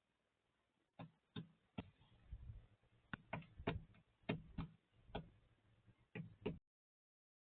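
Beaks pecking at food, a run of about a dozen sharp, irregular taps that stop suddenly near the end.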